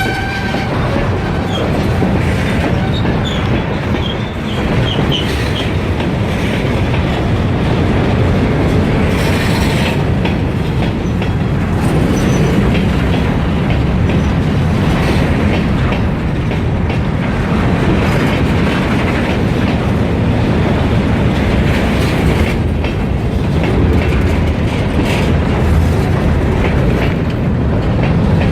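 Kiamichi Railroad freight train rolling past, a steady rumble of railroad cars with wheels clacking over the rail joints and a brief faint wheel squeal.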